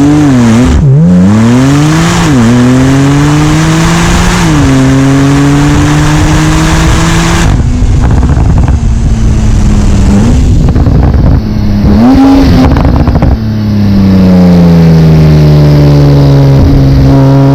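Porsche 911 Turbo S's twin-turbo flat-six accelerating hard, its note climbing and then dropping sharply at each of three quick upshifts. Two short blips follow later, then a long falling note as the car slows.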